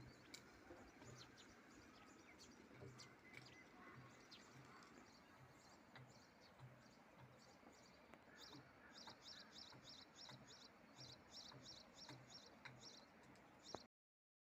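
Small birds chirping faintly outdoors, with a quick run of repeated high chirps, about three a second, in the second half; the sound cuts off suddenly near the end.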